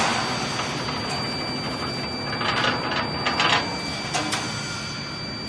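Garage door spring-making machine running, a steady mechanical whir with a thin high whine, with a few short rattling bursts around the middle.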